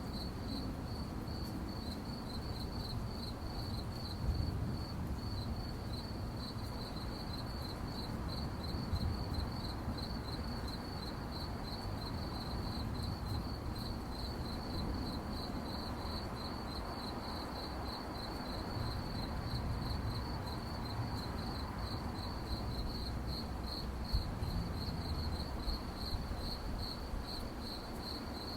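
Crickets chirping in a quick, regular run of short chirps at one high pitch, over a low, steady background rumble.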